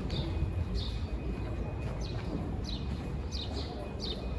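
A small bird chirping over and over: short, high, falling chirps about two a second, over a steady low rumble of background noise.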